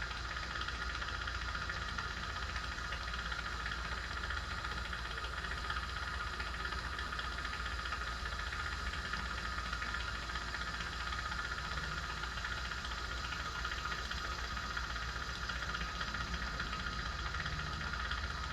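Steady mechanical hum: a low drone with a higher hiss over it, unchanging and with no distinct clicks or knocks.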